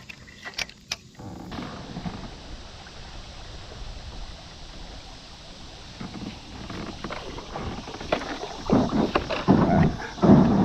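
Kayak on the river: a steady hiss of water and wind, with a few light clicks about half a second in, and louder, irregular bumps and splashes over the last couple of seconds.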